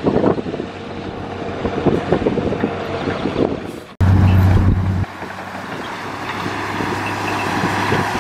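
Heavy diesel earthmoving machinery working: an engine runs under a jumble of knocks and rattles. About four seconds in the sound cuts abruptly to a loud, low, steady engine drone, which drops to a quieter steady hum a second later.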